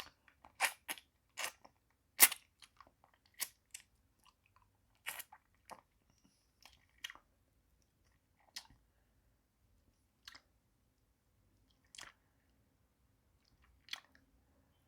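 Wet mouth sounds of sucking and licking a hard pacifier-shaped lollipop: sharp clicks that come in quick succession for the first several seconds, then thin out to one every couple of seconds.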